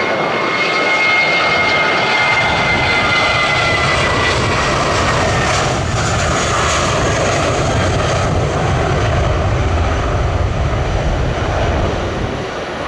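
Jet airliner engines close by, a high whine sliding slightly lower over the first few seconds over a loud steady rush, with a deeper rumble building in the middle and easing near the end.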